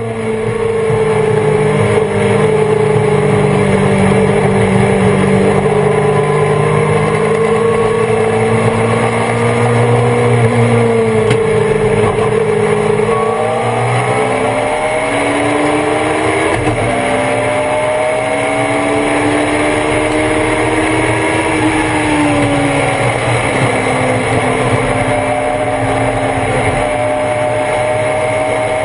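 Thunder Roadster race car's engine heard from on board, running under load, its pitch falling and climbing again with throttle and gear changes.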